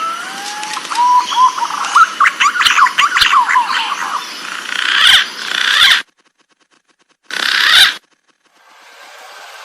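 Green pigeon (punai) calls: whistles that glide upward around 1 kHz, mixed with many quick chirps. The sound cuts off suddenly about six seconds in, and a short burst follows a little later.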